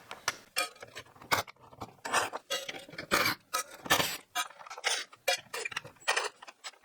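Irregular clicks, clinks and knocks of screws and tools being handled as a table's drop leaf is unscrewed, with small metal pieces clinking.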